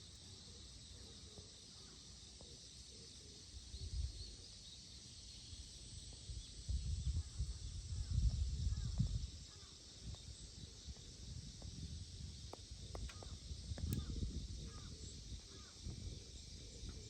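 Outdoor ambience: a few faint, short bird calls scattered through, over a steady high hiss, with low rumbling surges, the strongest about halfway through.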